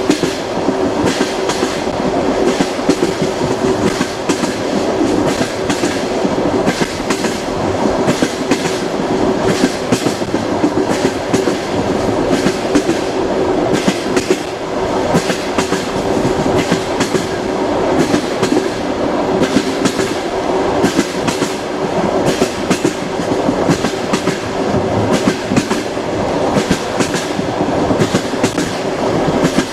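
Train wheels running on rails with a continuous clickety-clack over a steady rumble and a constant hum.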